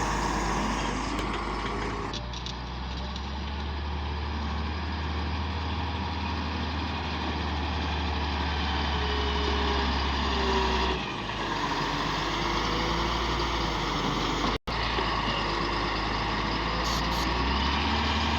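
Heavy diesel road-construction machine running steadily with a deep engine drone and faint rising and falling whines; the drone eases about eleven seconds in, and the sound cuts out for an instant near the end.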